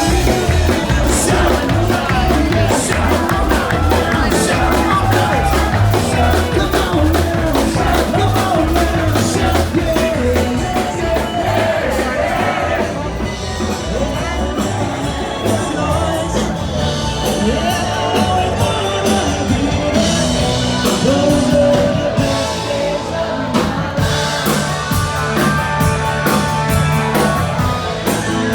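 Band playing loud rock-and-roll music with a singer and a steady drum beat.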